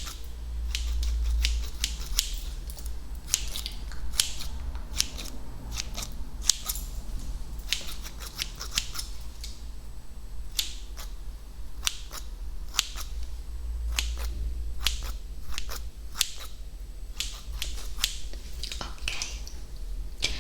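Scissors snipping close to the microphone, many quick, irregular sharp snips over a steady low hum.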